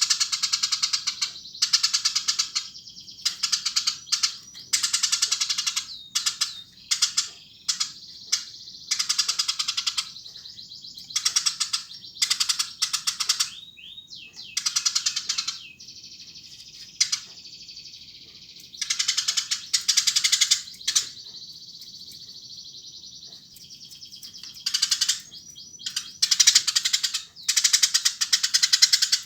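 Eurasian tree sparrows chirping hard: bursts of rapid, shrill chirps, each about a second long, repeated every second or two, with fainter continuous twittering between the bursts.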